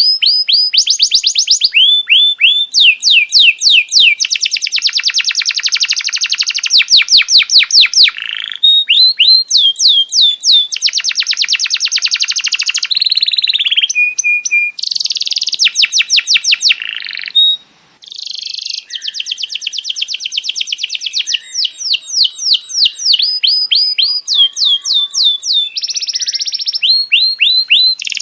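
Songbird singing a fast, loud song of repeated downward-slurred whistled notes and dense trills, with a short break about seventeen seconds in.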